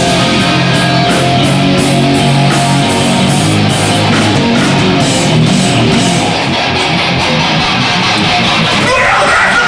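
Hardcore band playing live: a loud, heavily distorted electric guitar riff over drums with steady cymbal hits. A shouted vocal comes in right near the end.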